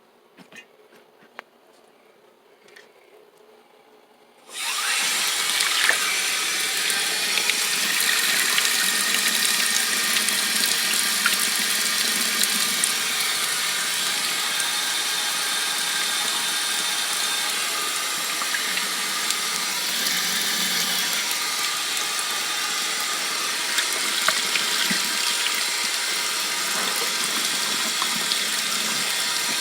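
Water running steadily from a tap into a sink, starting abruptly about four and a half seconds in, after a few faint clicks; hot water for softening a stiff tire so its bead will seat.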